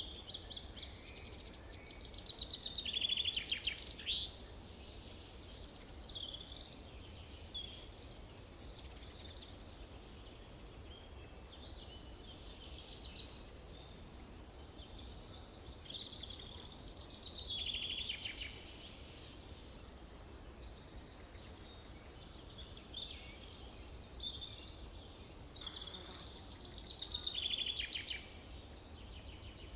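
Forest birdsong: several birds chirping and singing, with a louder rapid trilled song three times, near the start, about halfway through and near the end, over a steady low rumble.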